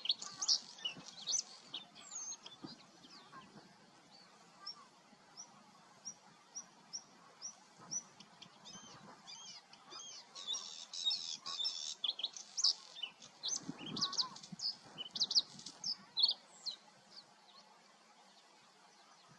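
Songbirds singing: bursts of rapid, high warbling at the start and again from about ten seconds in, with a run of short, evenly spaced high notes, about two a second, in between.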